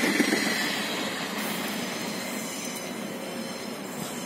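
Passenger train rolling along the track, its wheels rumbling steadily on the rails, the sound fading as the train draws away.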